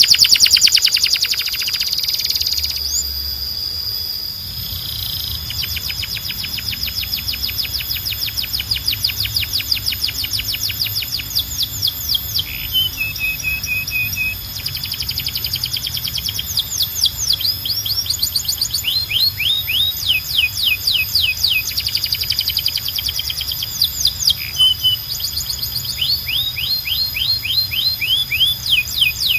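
Canary singing a long, loud song made of fast trills of rapidly repeated high notes, broken by a brief steadier lower note near the middle and runs of quick falling notes later.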